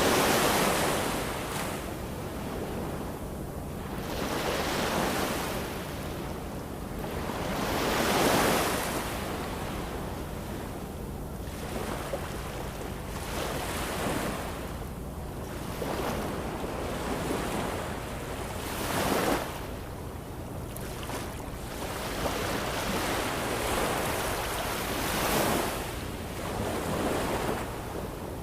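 Ocean surf: waves washing in one after another, each swelling and fading over a few seconds, with about six surges in all and the biggest right at the start. A steady low rumble runs beneath.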